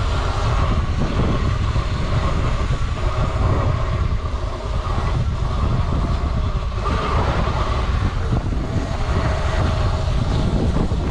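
Wind buffeting the microphone over the clatter and rattle of an electric dirt bike riding over a rough, sandy trail.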